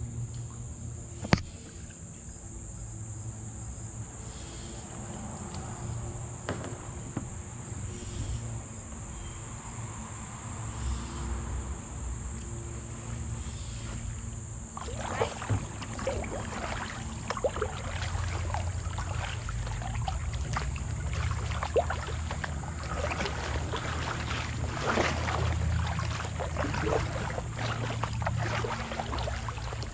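Kayak paddling on calm water, with paddle splashes and drips growing busier from about halfway through, over a steady high-pitched chirring of insects. A single sharp click sounds about a second in.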